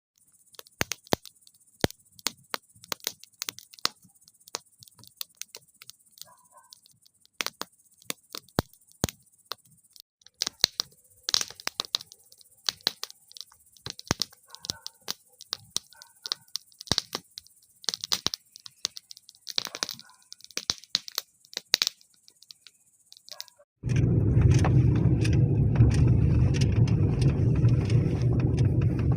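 Campfire crackling: irregular sharp pops and snaps of burning wood. About 24 seconds in, a loud, steady low rushing noise starts and covers the crackle.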